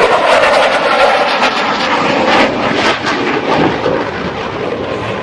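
An aircraft flying past, its engine noise loudest in the first half and easing off slightly toward the end.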